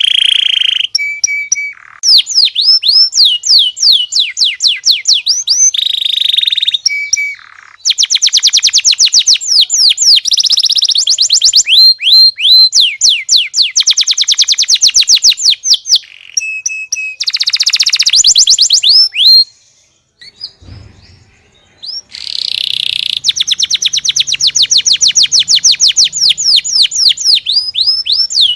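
Canary singing a long, loud song of fast trills, each phrase a rapid run of repeated high sweeping notes, the phrases changing in speed and pitch, with a brief pause about two-thirds of the way through.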